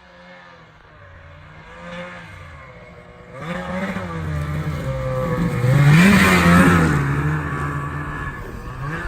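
Ski-Doo Summit snowmobile's two-stroke 850 engine revving, building sharply about three and a half seconds in, rising and falling in pitch at its loudest around six seconds, then easing off.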